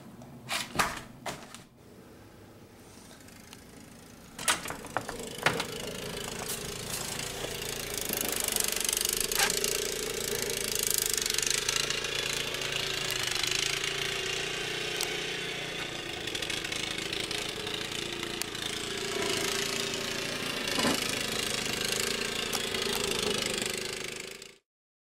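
An engine running steadily, beginning about four and a half seconds in after a few sharp knocks, then stopping abruptly near the end.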